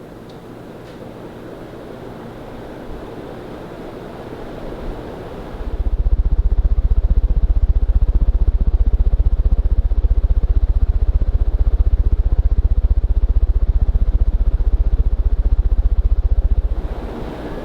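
Casablanca Cambridge ceiling fan running: a breathy rush of moving air grows slowly louder, then about six seconds in a heavy, rapidly pulsing low buffeting of the fan's air on the microphone sets in, easing off near the end.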